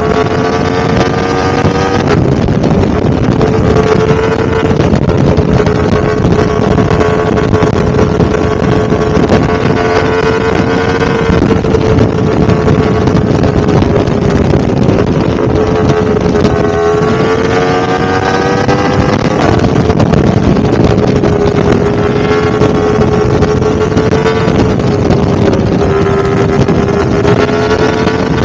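Yamaha R1-M's crossplane inline-four engine running steadily at fairly high revs, with wind noise on the microphone. Its pitch climbs and then steps down abruptly twice, about two seconds in and again around nineteen seconds in.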